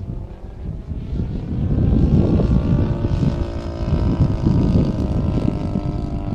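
DLE 35 single-cylinder two-stroke gas engine and propeller of a large radio-controlled Extra 260 running in flight, growing louder about two seconds in and fading again near the end. Wind rumbles on the microphone underneath.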